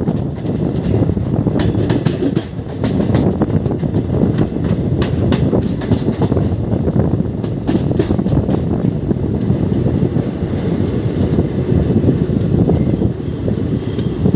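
Express passenger train running at speed: a steady heavy rumble of the coaches, with irregular sharp clacks of the wheels over rail joints, most of them in the first half.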